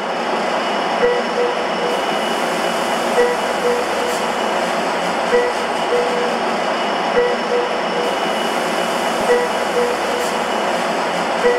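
Passenger train running along the track: a steady running noise with groups of two or three short clacks about every two seconds, the wheels passing over rail joints.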